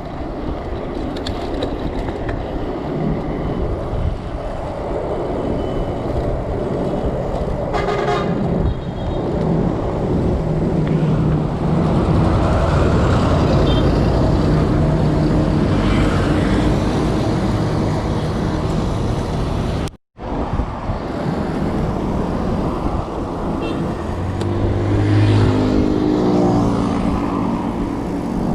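Wind rushing over the microphone and road noise while riding along a road with motor traffic, with a short horn-like toot about eight seconds in. Near the end a passing vehicle's engine rises and falls in pitch.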